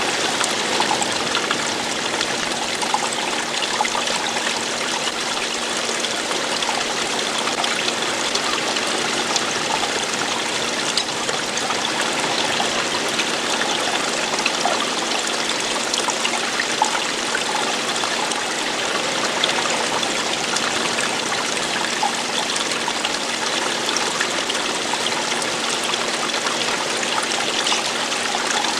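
Running water flowing steadily, like a stream trickling and rushing without pause.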